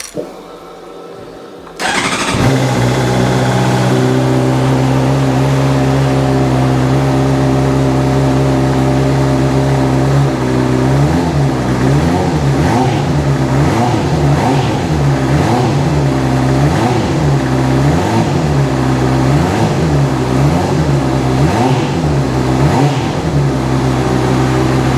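A Honda CBR600RR's inline-four engine is started: the starter turns it for about two seconds before it fires and settles into a steady idle. About ten seconds in, a run of quick throttle blips follows, about one a second, each revving up and dropping back, before it returns to idle near the end.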